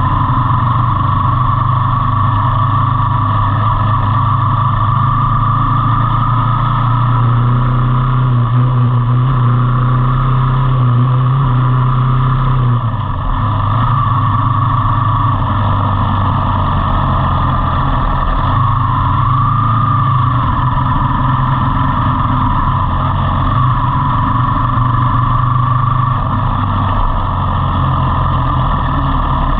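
Motorcycle engine running steadily while riding, with a slight dip in level about thirteen seconds in.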